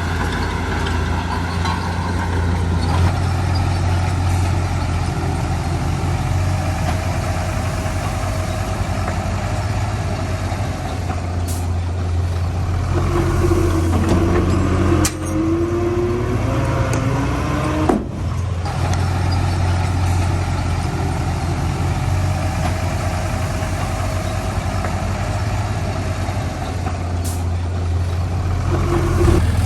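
Heavy diesel engine of construction machinery running steadily with a deep drone, with a brief wavering rise and fall in pitch around the middle.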